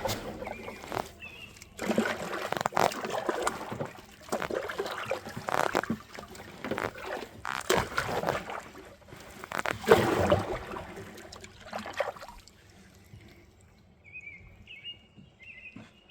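Kayak paddle strokes splashing and sloshing in river water, in uneven bursts with a few knocks, for about twelve seconds. Then the water goes quiet and short bird calls sound near the end.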